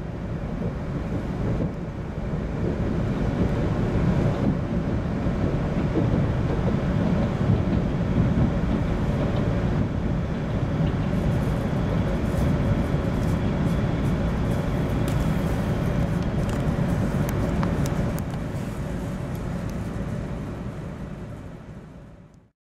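Shinkansen train running, heard from inside the passenger cabin: a steady, loud rumble of wheels and rushing air with a faint steady hum, easing off after about eighteen seconds.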